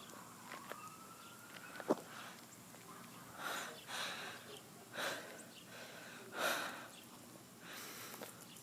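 A faint, distant siren rising in pitch during the first two seconds. Heavy breathing follows, with a breath about every second; these breaths are the loudest sounds.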